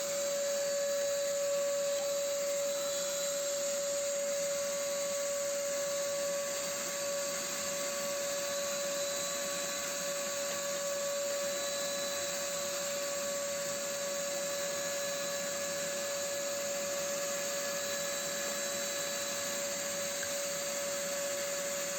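A small electric motor running steadily: a constant whine over an even hiss, with no change in speed.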